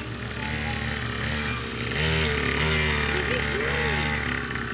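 Small dirt bike engine running steadily at modest speed, growing louder about two seconds in as the bike comes closer.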